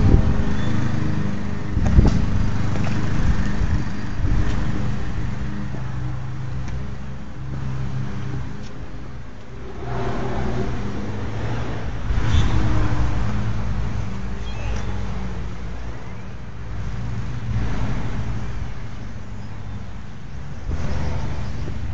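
Car engine running steadily at low speed, a low hum, with a knock about two seconds in.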